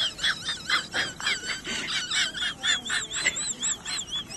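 Bird-like chirping: a rapid run of short high calls, several a second, turning into wavering whistled notes in the second half.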